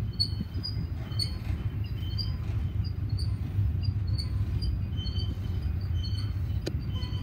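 Union Pacific double-stack container train's well cars rolling past, a steady low rumble of wheels on rail, with short high squeaks scattered throughout.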